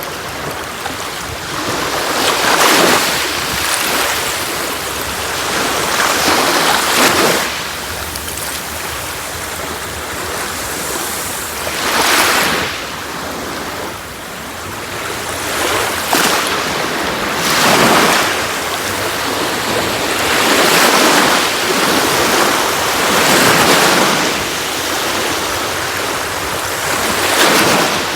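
Sea waves breaking and washing up a beach over a steady hiss of surf. A louder surge comes about every three to four seconds.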